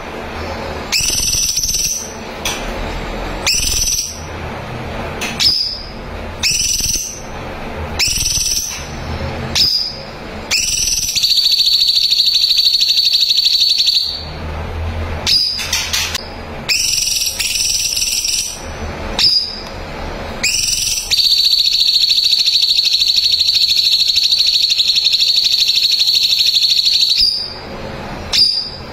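Cucak cungkok singing in a rapid, tight burst: short, sharp high calls repeated about every second, broken twice by a long, steady, high trill lasting several seconds.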